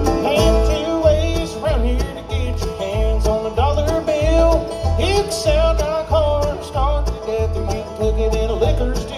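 Live country-bluegrass band playing a song's instrumental intro: plucked strings over a steady bass beat, with a lead line bending its notes.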